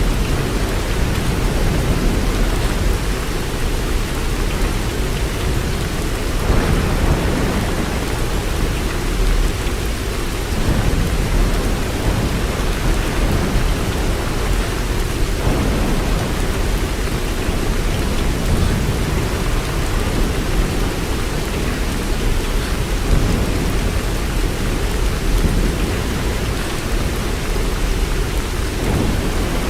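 Steady rain falling, an even wash with a deep low rumble underneath that swells slightly now and then.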